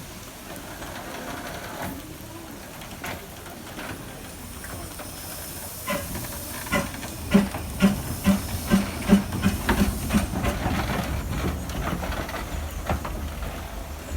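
Narrow-gauge steam locomotive hissing steam, then from about six seconds a quick run of regular beats over a rising low rumble as the train works.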